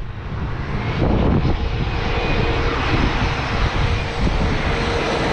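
Airliner's jet engines running as it passes low overhead on final approach to land, loud enough for a spotter to call it a haircut. The roar swells about a second in, with a steady whine that dips slightly near the end as it goes by.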